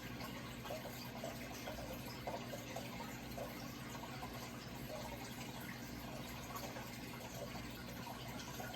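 Water running and trickling steadily, with small irregular gurgles, over a low steady hum.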